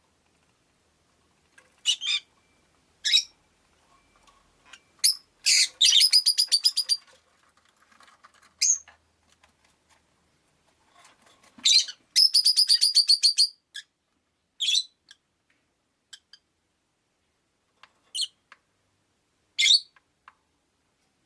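Rosy-faced lovebirds calling: sharp, high single chirps with pauses between, and twice a rapid trill of about eight quick notes a second.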